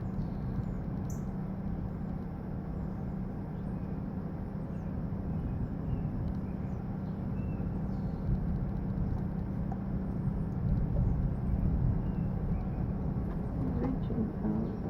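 Steady low outdoor rumble with an even hum, with faint short bird chirps scattered through it.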